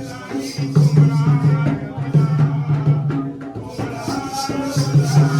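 Jakhadi folk music with a steady beat of jingling, rattling percussion over sustained pitched tones, an instrumental stretch without singing.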